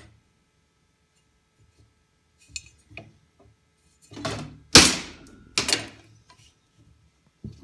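Hammer blows on a tack-welded steel part on a steel welding table, knocking it into square: a few light taps, then three heavy ringing strikes about four to six seconds in, the middle one the loudest, and a smaller knock near the end.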